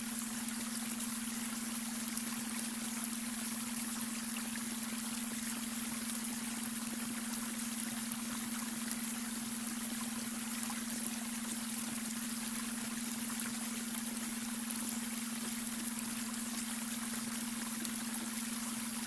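Babbling brook, water running and trickling steadily, under a constant low tone: the beta brainwave tone blended into the water.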